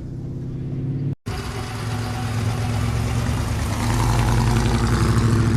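Car engine running steadily with a deep, even note that grows louder through the second half. The sound drops out briefly about a second in.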